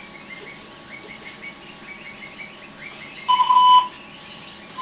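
Voicemail record beep over the phone line: a steady tone of about half a second some three seconds in, with another short beep starting at the very end. Birds chirp in short, repeated calls throughout.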